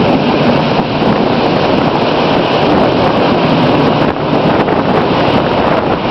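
Diesel train running at speed, heard from aboard, with wind buffeting the microphone: a steady, loud rushing noise.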